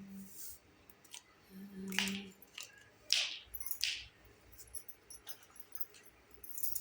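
Plastic packaging and small toy kitchen pieces being handled: a run of crinkles, swishes and light clicks, the loudest about two seconds in and around three to four seconds in. A faint low hum sounds briefly about two seconds in.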